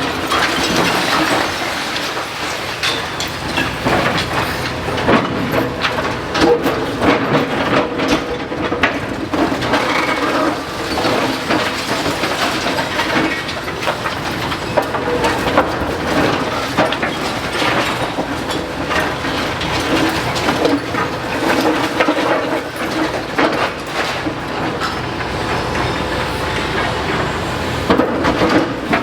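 Demolition excavator breaking up a masonry building: constant irregular clattering and crunching of falling rubble over a steady engine drone.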